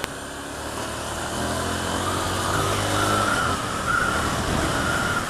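Honda CB 300 motorcycle's single-cylinder engine pulling along a city street, rising in pitch, with a short dip about three and a half seconds in, as at a gear change, before picking up again.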